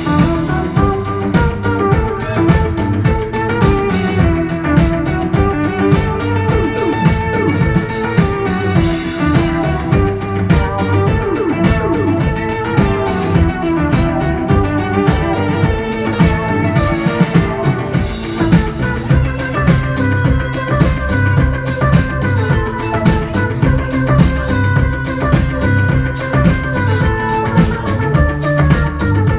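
Live rock band playing an instrumental passage of Turkish psychedelic rock: a plucked-string lead over bass and a drum kit keeping a steady beat.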